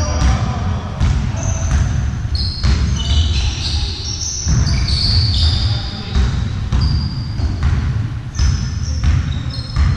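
Indoor ball game in a reverberant sports hall: a ball thudding on the floor and many short, high squeaks of shoes on the court over a dense rumble of play.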